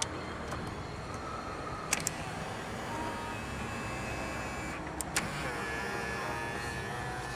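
Honda CR-Z's electric door-mirror motors whirring as the mirror is adjusted. A switch clicks each time the whine changes pitch, about two seconds in and again about five seconds in, as the direction changes.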